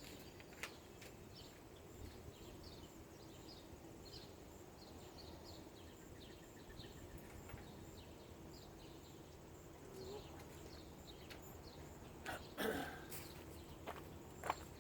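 Quiet background with a bird chirping over and over in short, high chirps, two or three a second. A few light clicks and a louder knock near the end come from tools and parts being handled.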